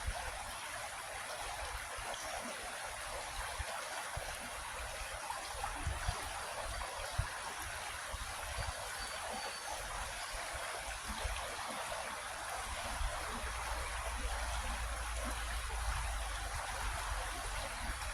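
Creek flowing, a steady rushing and trickling of water, with a low rumble underneath that grows stronger near the end.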